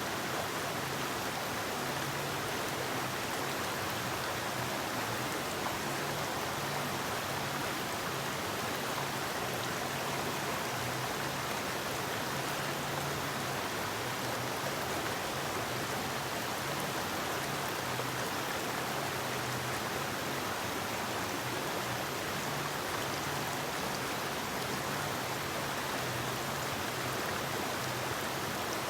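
Forest river flowing: a steady, unbroken rush of water over rocks.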